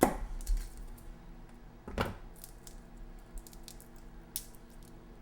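Garlic being prepped with a knife on a cutting board: two sharp knocks, one at the start and one about two seconds in, then scattered small clicks. A steady hum from the microwave cooking the beans runs under them.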